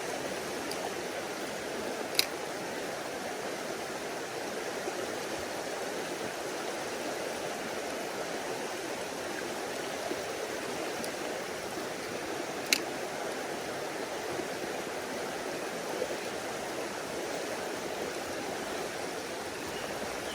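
Mountain stream rushing steadily over rocks. Two short sharp clicks stand out over it, one about two seconds in and another near the middle.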